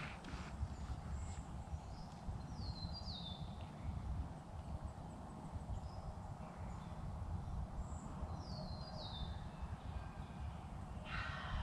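Low outdoor rumble, like wind on the microphone, with a songbird giving two pairs of short falling whistled notes. Near the end a wild turkey gobbles in the distance.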